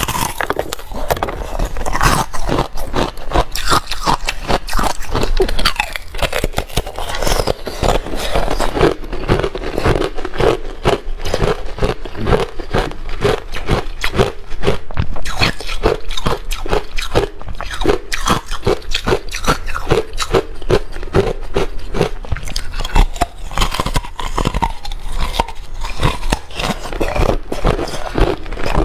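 Ice being bitten and chewed close to the microphone: a rapid, continuous run of crunches.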